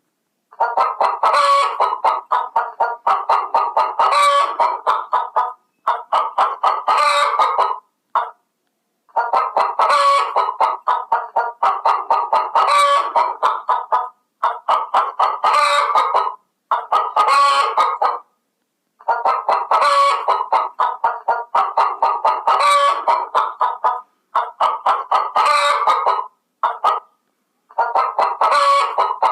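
Chickens clucking in rapid runs of calls, with a sharper, louder call standing out every few seconds. The sound stops dead several times for a moment between stretches.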